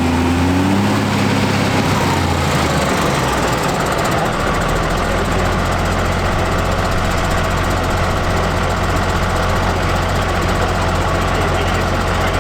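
Deutz-Fahr Agrotron M620 tractor engine coming down from high revs over the first few seconds and settling to a steady idle, as a dynamometer run ends.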